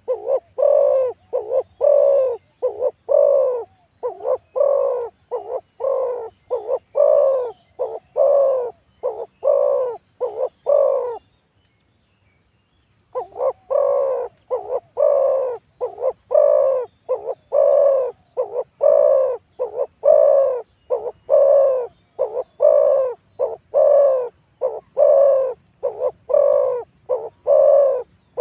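Spotted doves cooing: a steady run of low coos, about one and a half a second, breaking off for about two seconds near the middle before carrying on.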